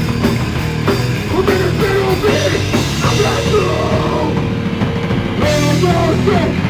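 A rock band playing loud and fast with drum kit and electric guitars, recorded live on a phone.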